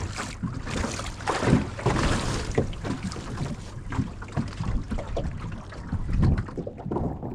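Short waves slapping irregularly against the hull of a small sailing dinghy, with wind buffeting the microphone.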